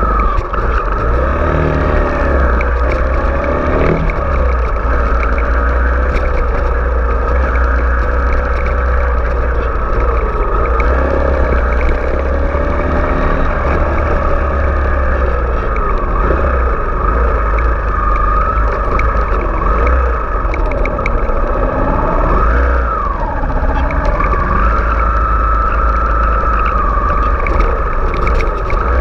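Kawasaki Ninja 250 parallel-twin engine running while riding, its pitch rising and falling again and again with the throttle, over a steady low rumble.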